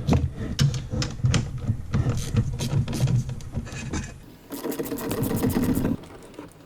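Metal clinks and knocks of tools and parts being handled, then a fast, even run of clicks from a socket ratchet wrench turning a bolt on the snowmobile's chaincase cover, about four seconds in.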